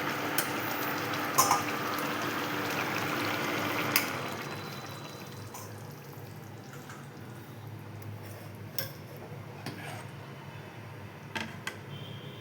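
Chicken curry bubbling in a pan on the stove; the bubbling fades out about four seconds in, leaving a few short clicks.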